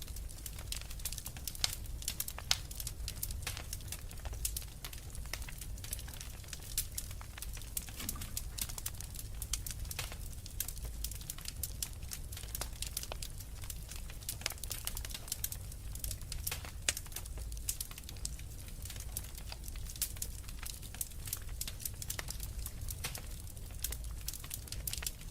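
Log fire burning in a fireplace, with dense, irregular crackles and pops over a steady low rumble of the flames.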